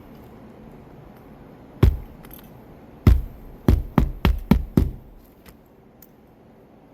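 Hammer driving a nail into a roof shingle: one strike about two seconds in, then a run of six quick strikes at about three to four a second.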